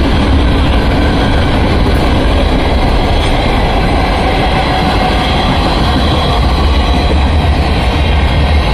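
Freight train cars (gondolas, then tank cars, then empty well cars) rolling past: a loud, steady rumble and clatter of steel wheels on the rails.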